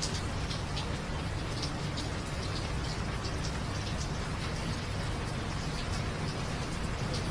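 Steady rain falling, with a low rumble beneath and scattered single drops ticking sharply on nearby surfaces.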